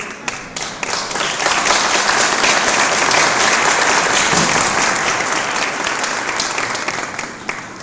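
Audience applauding, swelling over the first second or so and dying away near the end.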